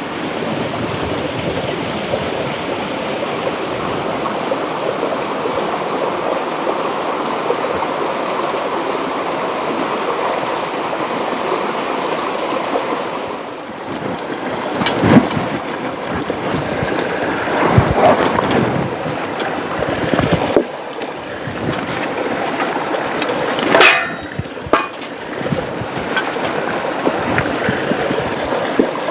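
Steady rushing of river water flowing over rocks, broken by a few brief louder sounds partway through and near the end.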